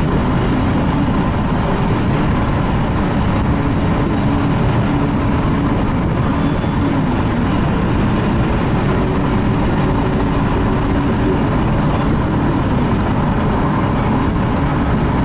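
Steady road and engine noise of a car driving, heard from inside the cabin: an even low rumble with no changes.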